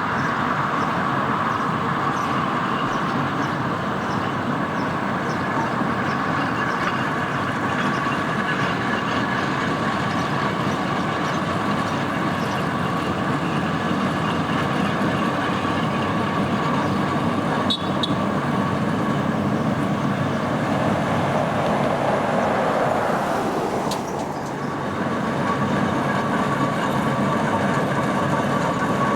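Steam traction engine running along the road, a steady mechanical drive noise with a held tone through it. A sharp click comes about eighteen seconds in, and the sound briefly drops about twenty-four seconds in.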